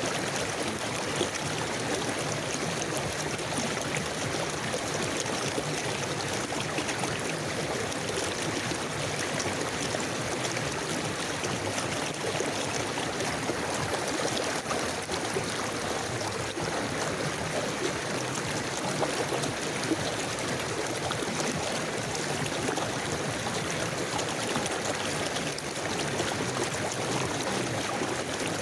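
River water flowing steadily over stones, a continuous rushing and trickling.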